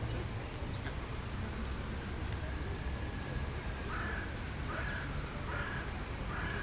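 A crow cawing four times in a row, evenly spaced, starting about two thirds of the way in, over a steady low hum of city park ambience.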